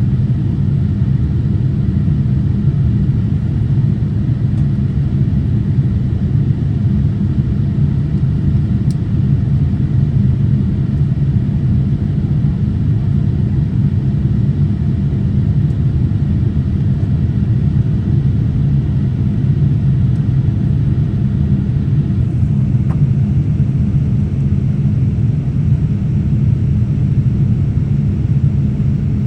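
Steady low rumble inside the cabin of a Boeing 787-8 airliner: engine and airflow noise heard from an economy seat, unchanging throughout.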